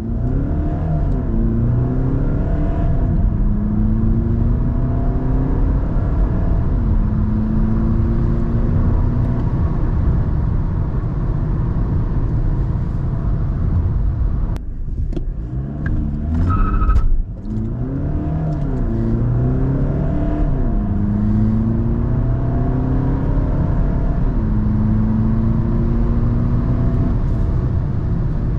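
VW Golf 8 2.0 TDI four-cylinder diesel heard from inside the cabin under full-throttle acceleration through its 7-speed DSG gearbox. The engine note rises and falls back at each quick upshift. There are two such runs, with a short break about halfway.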